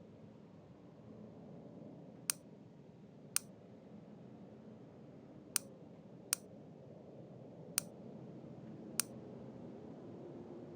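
Six short, sharp clicks at uneven intervals, about a second or two apart, over a faint steady low background hum.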